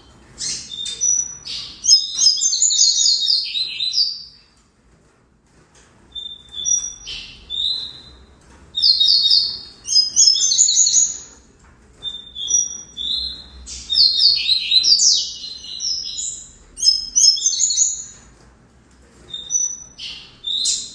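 Double-collared seedeater (coleiro) singing: repeated phrases of quick, sweet, high notes and trills, each lasting one to four seconds, with short pauses between them.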